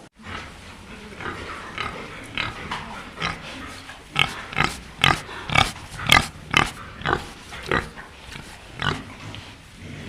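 Farm animals calling: a fast run of short, repeated cries and grunts, loudest and closest together about four to seven seconds in.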